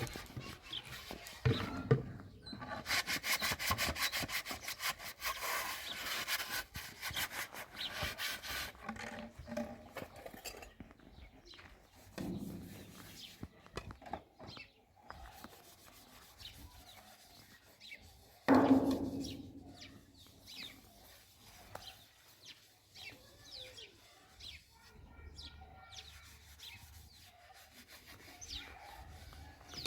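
Handwork sounds of rubbing and scraping, with a dense run of fast rasping strokes in the first several seconds and a single loud thump a little past halfway.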